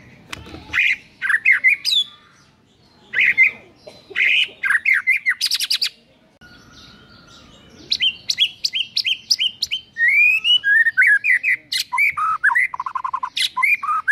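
White-rumped shama (murai batu) in full song, pouring out its repertoire of learned and mimicked phrases ('isian'): fast varied whistles broken by short pauses, with a quick clicking rattle midway and a run of evenly repeated notes in the second half.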